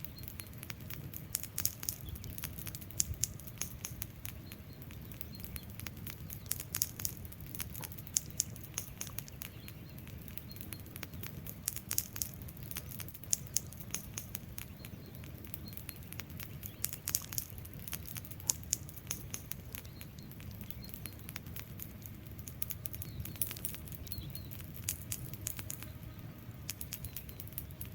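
Wood fire burning: dense irregular crackling with scattered louder pops over a low steady rumble of flames.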